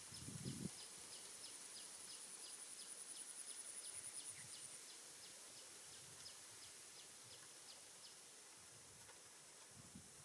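Faint insect chorus: a very high, fast pulsing trill that fades out about five seconds in, under a short high chirp repeated about three times a second that stops near the eight-second mark. A couple of soft low thumps at the very start.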